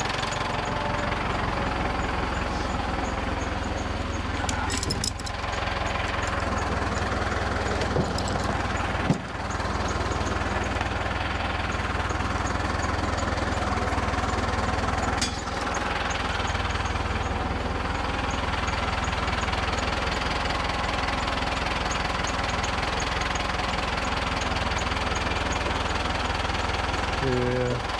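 Tractor engine running steadily, with a few sharp knocks about 5, 9 and 15 seconds in.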